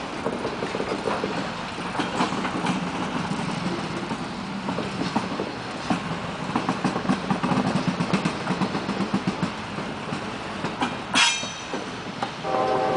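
Freight cars of a long train rolling past: a steady rumble with a constant patter of wheel clicks over the rail joints. A brief high wheel squeal comes about eleven seconds in, and a train horn chord starts blowing just before the end.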